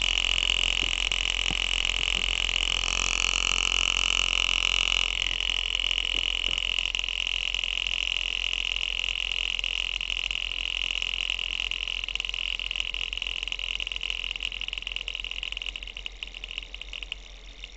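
Small homemade thermoacoustic engine (heated wire wool in a glass tube) running, a steady high-pitched tone over fast even pulsing as it drives its little piston. The tone shifts about five seconds in, then the sound slowly grows quieter.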